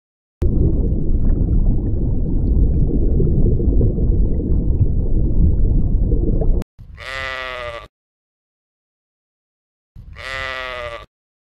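A loud, low rushing noise for about six seconds that cuts off abruptly. Then come two bleats, each about a second long with a wavering pitch, a few seconds apart.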